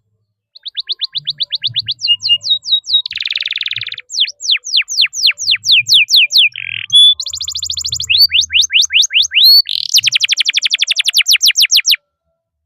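Domestic canary singing a long, loud song of rapidly repeated phrases: fast trills, runs of falling whistled sweeps and buzzy rolls, the 'cuit cuit' and roll of a canary in full song. It starts about half a second in and stops about a second before the end.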